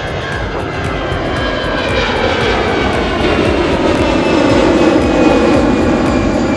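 Jet airliner engines at takeoff power passing close, a loud rush that swells to a peak about five seconds in, with a high whine falling slightly in pitch.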